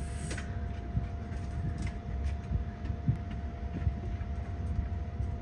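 A steady low rumble with a thin, even hum above it, broken by a few faint light knocks.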